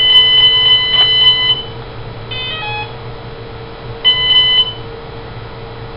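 Electronic speed controller (ESC) beeping through a brushless motor: a long steady beep of about a second and a half, a quick run of short falling tones about two and a half seconds in, and another short beep about four seconds in. Under it runs a steady low hum.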